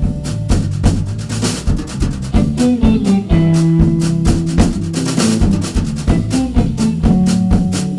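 Jazz combo playing an instrumental holiday tune: a drum kit keeping a steady beat on kick and snare under a walking bass line and held melody notes.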